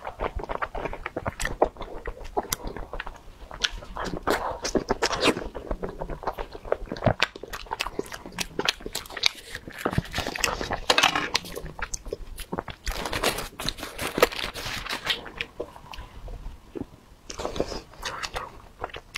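Close-miked chewing and wet mouth smacks of someone eating soft daifuku (mochi rice cakes). Longer bursts of crinkling in the middle come from a foil cup being peeled off a daifuku.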